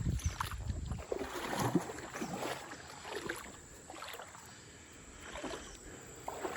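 Shallow creek water splashing and sloshing in short, irregular splashes, with a low rumble in the first second.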